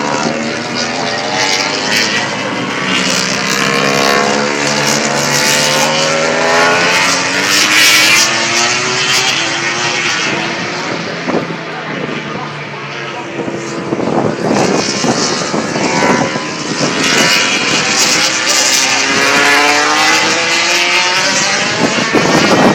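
MotoGP bikes' 1000 cc four-stroke racing engines at speed on track, their pitch rising and falling through gear changes and as they pass, with several bikes overlapping.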